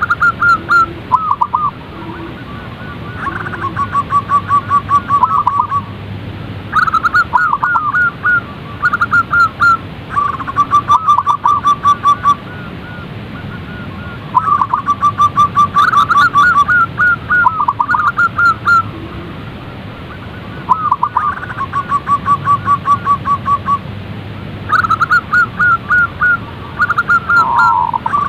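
Zebra doves cooing: phrases of quick, staccato notes, each phrase a second or two long, with some notes dipping down at the end and short pauses between phrases.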